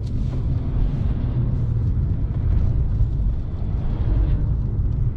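Car on the move: steady road and engine rumble, heard from inside the cabin.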